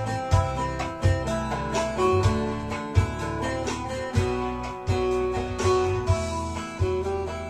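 Bağlama, the Turkish long-necked lute, playing a plucked instrumental melody over deep bass notes. It slowly gets quieter through the second half.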